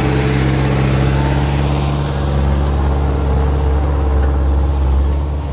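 Six-wheel truck's diesel engine running under load in a steady drone while the truck reverses on slippery wet ground, with a hiss over it that thins out about halfway through.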